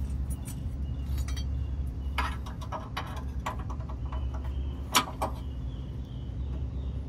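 A car engine idling with a steady low hum, overlaid by scattered light metallic clinks; the sharpest clink comes about five seconds in.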